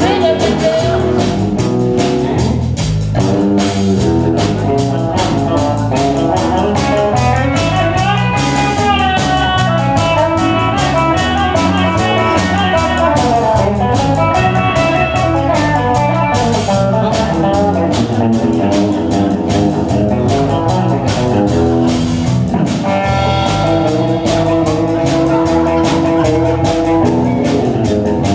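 Live blues-rock band playing an instrumental passage: electric guitar lines over bass and a steady drum-kit beat.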